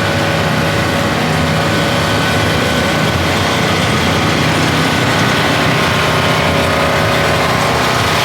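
An engine running steadily at idle, a constant hum.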